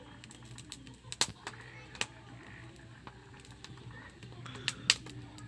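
Conifer firewood burning in a campfire, crackling with scattered sharp pops; the loudest pop comes near the end.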